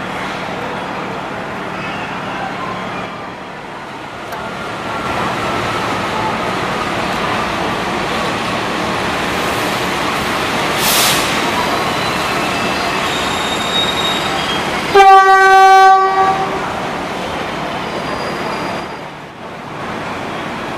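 A fuel tank train rolling slowly into a station, with a steady rumble of wheels on rail and a faint falling wheel squeal. About fifteen seconds in, the locomotive horn sounds once for about a second and a half, the loudest sound here.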